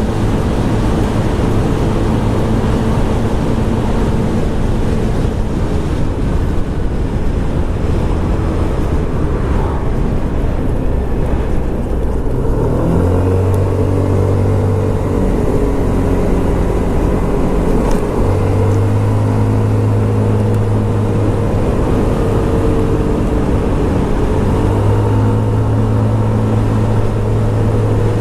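Scomadi TT125 scooter's 125cc four-stroke single-cylinder engine running on the move under a steady rush of wind noise. A bit under halfway through, the engine note comes up stronger and steadier, and its pitch wavers up and down as the speed changes.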